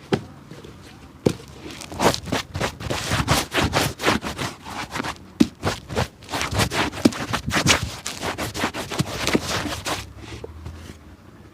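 Quick, repeated scraping strokes of a cobbler's tool or brush worked across an old shoe, several strokes a second, easing off near the end.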